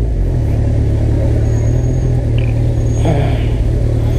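Kawasaki Ninja ZX-14R inline-four engine running steadily at low revs while the bike creeps through slow, crowded city traffic, heard from the rider's helmet camera.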